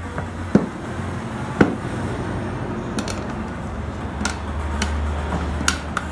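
Sharp metallic knocks and clinks of work on a scooter wheel during a tyre change, five or so at irregular intervals, over a low steady hum.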